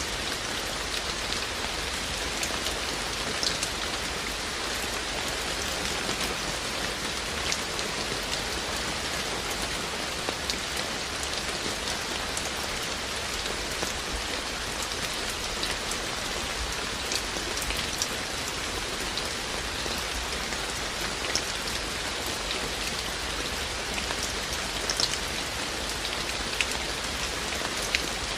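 Steady rain falling, with single drops ticking now and then on near surfaces.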